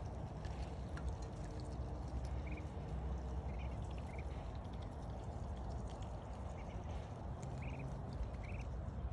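Steady rain with fine pattering drops, and three-week-old ducklings giving short, scattered peeps.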